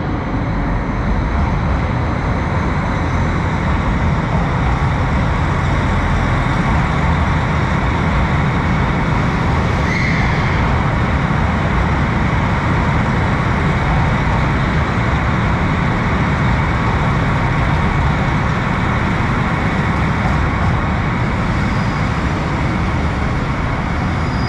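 A train running at a station platform: a loud, steady rumble with no change in level.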